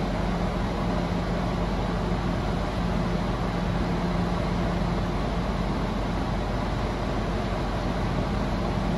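BMW M5 Competition's twin-turbo V8 idling steadily, heard from inside the cabin as an even low hum.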